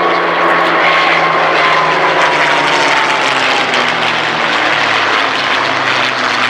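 North American P-51D Mustang's Merlin V-12 engine on a fly-past, with its very distinctive whistle. The whistle falls in pitch over the first few seconds, and the engine note drops steadily as the fighter passes.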